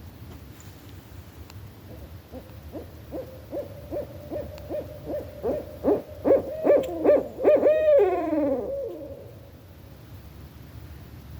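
Barred owl calling: a run of short hoots that comes faster and louder from about two seconds in, ending with a few longer hoots that slide down in pitch.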